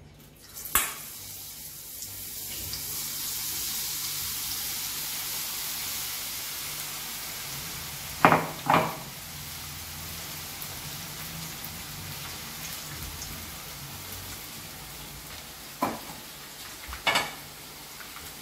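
Boondi frying: drops of besan batter falling through a perforated ladle into hot ghee in a kadhai, a steady sizzle. About five sharp taps stand out over it: one near the start, two close together about eight seconds in, and two near the end.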